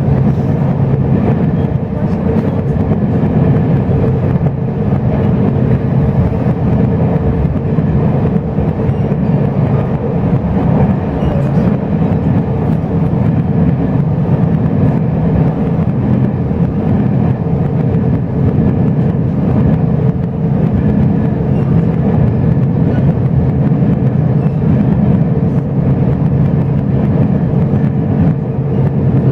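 Steady rumble of a Chu-Kuang express passenger carriage running along the line, heard from inside the car, with a faint steady hum above it.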